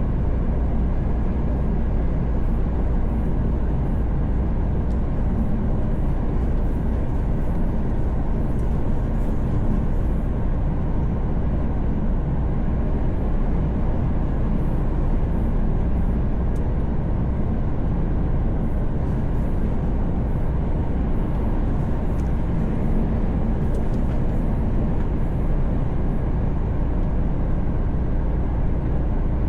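Steady drone of a Mercedes-Benz Actros truck at highway speed, heard from inside the cab: engine and tyre noise, deep and even throughout.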